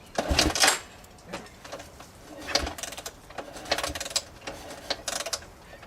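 Honda XR600R's big four-stroke single being kicked over, four kick-start strokes with mechanical clatter that do not yet fire. The engine is warm and catches right after.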